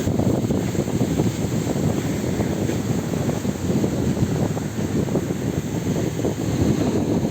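Wind buffeting the microphone over the low running noise of a river motor ship setting off on its voyage.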